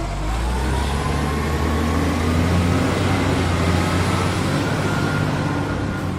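Heavy truck engine sound running steadily with a deep rumble and hiss, and a faint whine that slowly rises in pitch.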